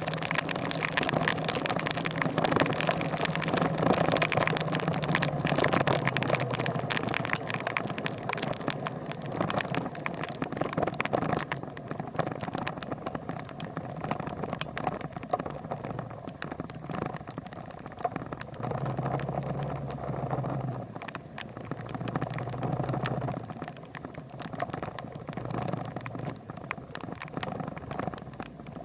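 A motor vehicle's engine running steadily, with road and wind noise and small rattles; the noise is louder for the first ten seconds or so, then eases off.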